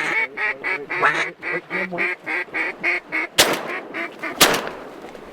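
A rapid run of mallard quacks, about five a second for some three seconds, then two shotgun blasts about a second apart.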